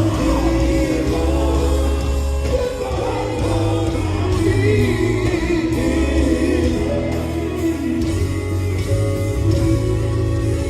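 Gospel group singing live in harmony over band accompaniment with guitar and a heavy low end.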